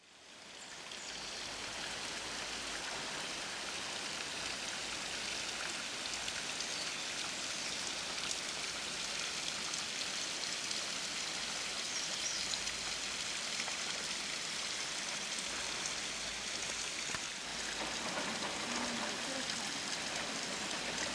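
Steady rushing noise like rain or running water, fading in over the first second or so.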